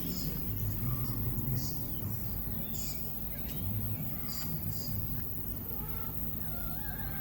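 Birds chirping and calling in short high notes, a few wavering whistles towards the end, over a low uneven hum.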